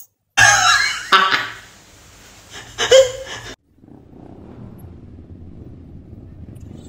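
A person makes loud cough-like, throat-clearing vocal noises in the first few seconds. A low, steady rumble follows for the rest and stops sharply just after.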